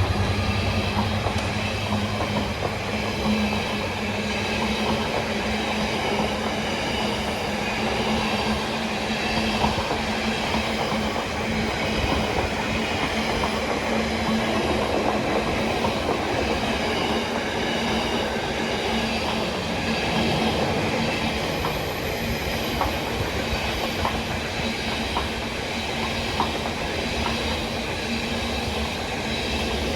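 A train running through the station: a steady noise of wheels on rails with a steady low hum, unchanging in level throughout.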